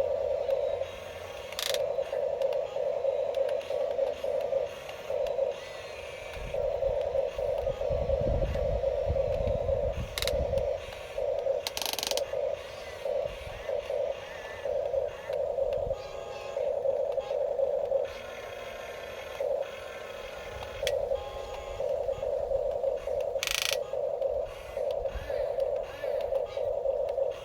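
Small electric motors and plastic gearboxes of remote-control toy construction vehicles whirring in short on-off bursts as they are driven and their arms worked, with a few sharp clicks and a brief low rumble in the middle.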